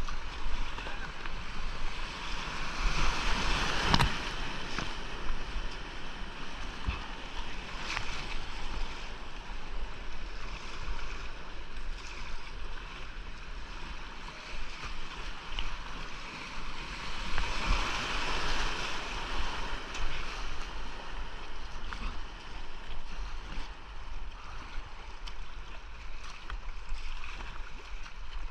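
Rushing whitewater of a rocky creek, swelling louder twice as rapids pass. A few sharp knocks stand out, the loudest about four seconds in.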